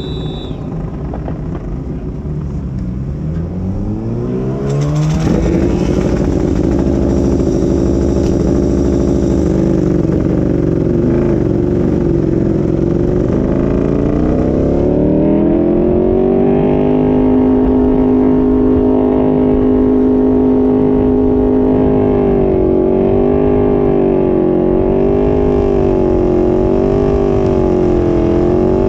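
Onboard sound of a Ducati superbike engine under racing power. The revs climb steeply a few seconds in and dip around the tenth second. They rise again and hold high and steady, then waver rhythmically up and down near the end.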